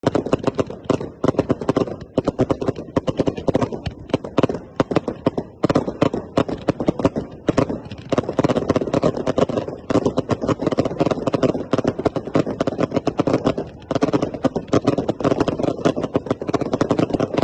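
Fireworks crackling: a dense, uneven run of sharp cracks and pops, many a second, with brief lulls about two, six and fourteen seconds in.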